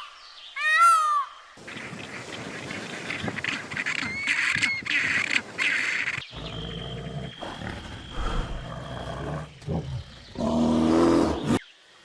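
A run of different animal calls in short segments that change abruptly: brief arching calls at the start, a noisy stretch with some higher calls in the middle, and a low rumbling stretch with one loud, deeper call near the end.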